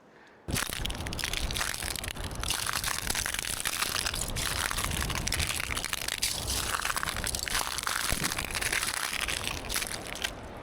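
Footsteps crunching steadily over loose, gritty ground, a dense crackle of many small crunches that cuts in about half a second in.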